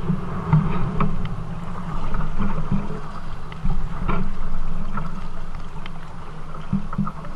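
Kayak moving on the river: a steady rush of water against the hull, with scattered short knocks.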